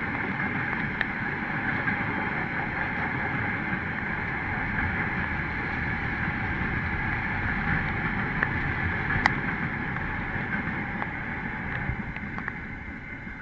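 KiwiRail train passing on the line: a steady rumble and rolling noise of wheels on rails, with a sharp click about nine seconds in.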